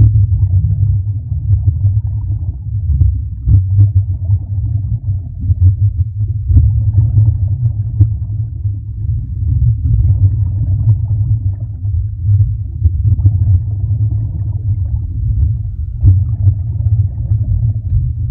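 Loud, steady low rumble of underwater ambience picked up by a diving camera, with a fainter hiss swelling about every three seconds.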